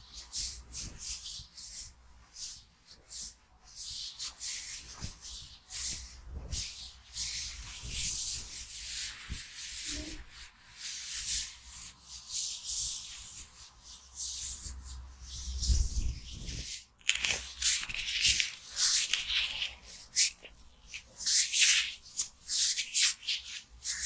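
Rubber-gloved hands rubbing close to the microphone: many short, irregular swishing strokes, coming faster in the second half.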